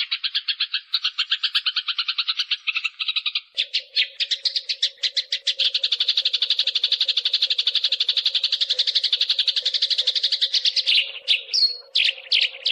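Eurasian tree sparrows' fighting chatter: a dense, rapid stream of harsh chirps, many per second. About three and a half seconds in the chatter shifts and a faint low hum joins it, and near the end it breaks into a few separate calls.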